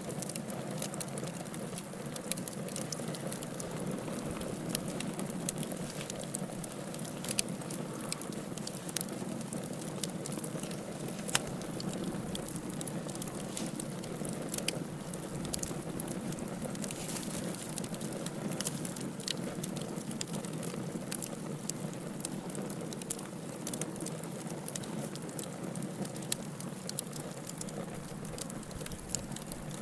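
Wood fire burning in a fireplace: a steady low rush of flames with frequent scattered sharp crackles and pops.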